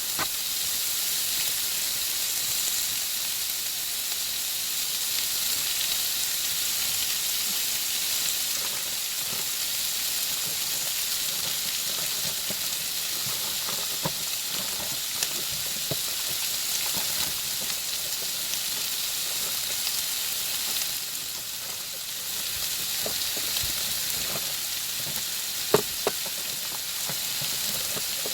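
Chicken pieces frying in butter in a pan, a steady sizzle with scattered pops and crackles, a couple of louder sharp clicks in the second half.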